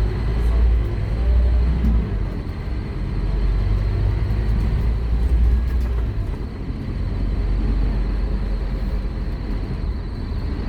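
Scania K230UB Omnilink bus heard from on board: its engine and running gear give a deep, steady rumble that swells and eases as the bus drives along.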